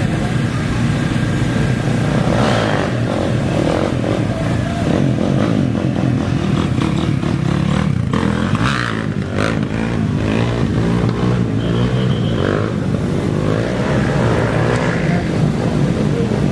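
Off-road racing motorcycle engines running and revving, with the pitch rising and falling as the throttle changes.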